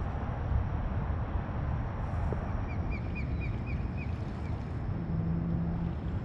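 Steady wind and water noise, with a bird giving a quick series of about seven short, high chirps about three seconds in. A brief low hum sounds near the end.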